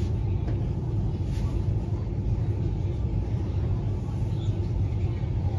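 Steady low rumble inside the carriage of a CRRC Changchun Type-A metro train.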